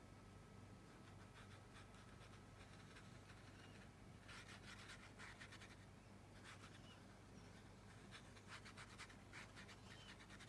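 Faint scratchy strokes of a paintbrush on watercolour paper, coming in short clusters, over a low steady hum.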